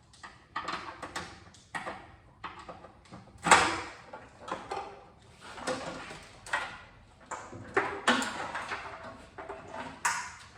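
A car's wiring harness being pulled loose and handled in the engine bay: a string of rustling scrapes, clicks and knocks, the loudest about three and a half seconds in.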